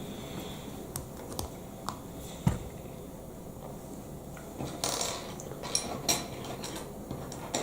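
Plastic Lego Technic pieces being handled and fitted together: scattered small clicks and rattles, with one louder knock about two and a half seconds in and a flurry of clicks near the middle.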